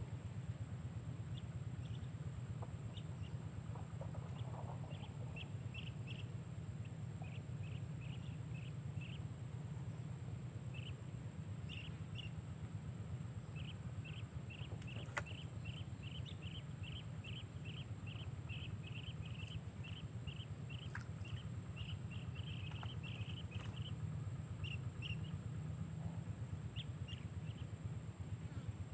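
A bird calling in runs of short, high chirps, several a second and densest in the middle, over a steady low rumble; a single click about halfway through.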